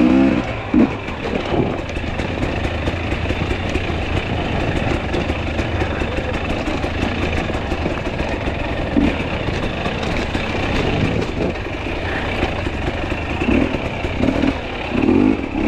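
Two-stroke enduro dirt bike engine running on the trail, holding a steady drone with a few brief throttle surges.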